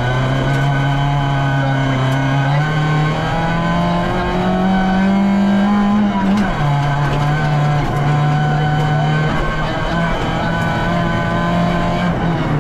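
VW Polo rally car's engine running hard, heard from inside the stripped cabin. Its pitch climbs steadily, drops sharply about six and a half seconds in, then holds level.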